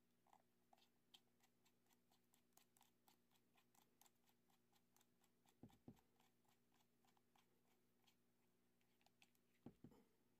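Faint rapid clicking, a few clicks a second, of a small Torx screwdriver turning screws into a plastic battery-pack housing, with soft knocks about halfway and near the end as the pack is handled. A low steady hum runs underneath.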